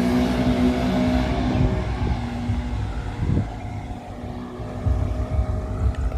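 A motor vehicle passing close by, its engine note fading away over the first two seconds, followed by a low, uneven rumble.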